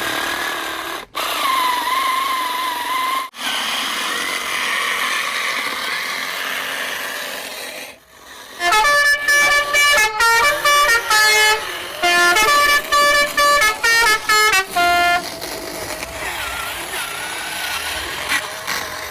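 About eight seconds of steady whirring noise with a wavering tone, then a quick run of loud horn notes at changing pitches, played like a short tune, after which the whirring continues.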